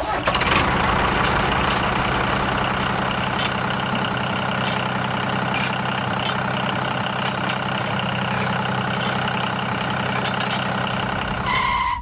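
Tractor engine running steadily with an even low drone. It starts abruptly and holds at a constant pitch.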